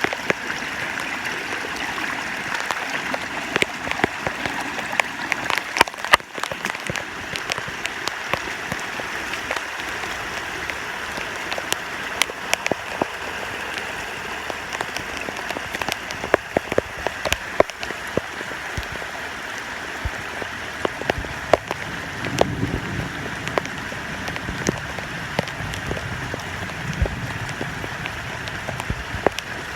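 Heavy rain falling steadily, a dense hiss dotted with many sharp drop hits.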